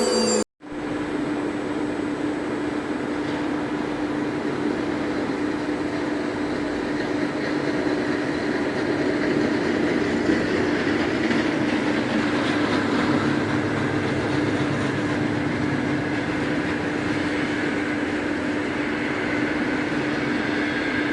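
Blue Elephant 1530 ATC CNC router running a program: a steady spindle tone over continuous machining noise.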